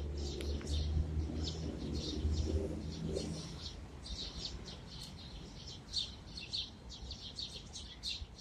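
A flock of small birds chirping at a feeder, many short overlapping chirps. A low rumble runs underneath for the first few seconds, then fades.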